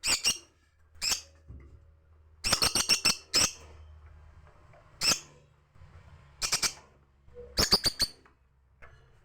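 Birds calling: short, sharp, high calls, some single and some in quick runs of four or five, over a faint low hum.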